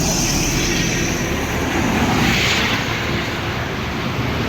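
Highway traffic noise: a steady rushing roar of passing vehicles, swelling as one vehicle goes by about two seconds in.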